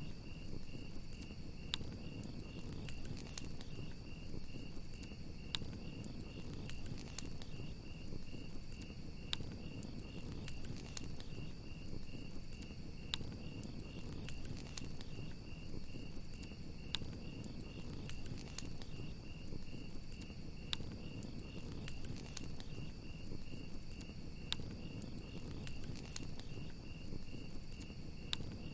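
Crickets chirping in a steady, fast-pulsing trill over a crackling wood fire, with scattered sharp pops and a low rushing haze from the flames.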